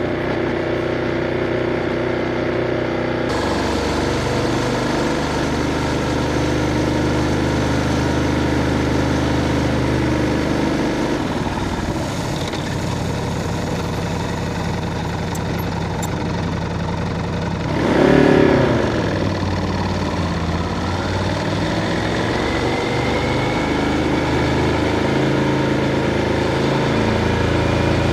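Ducati Scrambler 1100's air-cooled L-twin engine running while the motorcycle is ridden, its pitch stepping up and down with throttle and gear changes. About eighteen seconds in there is a brief louder surge.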